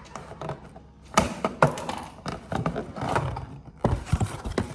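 Food packaging being handled and opened, with irregular rustling and a quick run of clicks and crinkles.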